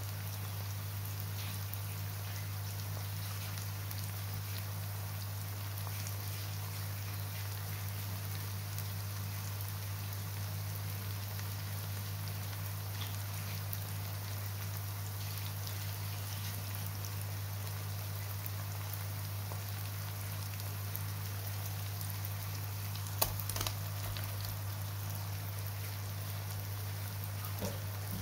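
Chopped onions sizzling in hot oil in a frying pan, an even crackle of tiny pops over a steady low hum. Near the end a couple of brief knocks as lamb liver pieces go into the pan.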